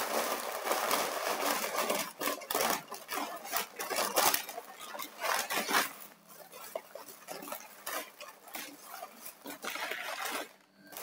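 Handling noise from food packaging and tableware: irregular rustling with many sharp clicks and knocks, busiest in the first half and fainter after about six seconds.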